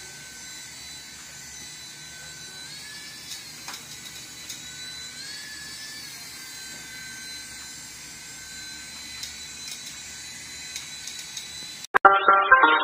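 Whine of a toy induction aircraft's small electric propeller motors, running steadily and twice rising briefly in pitch as they speed up, then settling back. Music starts abruptly near the end.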